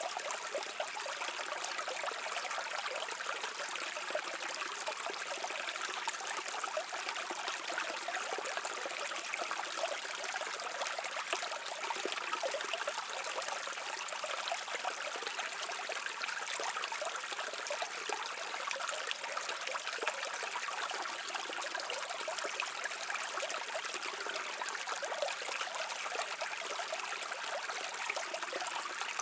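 Stream water flowing and trickling steadily over rocks.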